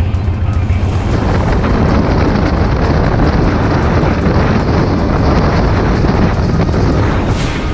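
Motorcycle riding along, its engine running under heavy wind noise on the microphone.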